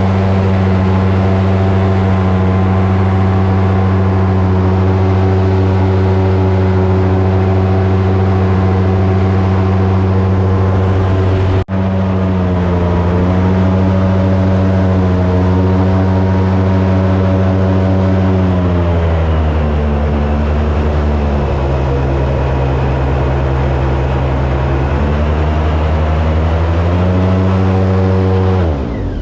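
Airboat's engine and propeller running loud and steady as the boat travels. The engine note drops about two-thirds of the way through and climbs back near the end, with a brief break about twelve seconds in.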